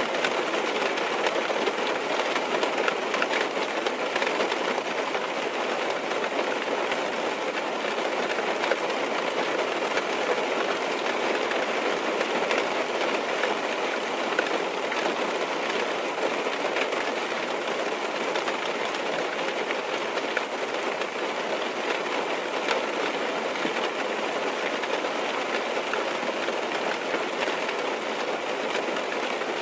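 Rain falling steadily on a car's roof and windows, heard from inside the cabin: an even hiss with scattered faint drop taps.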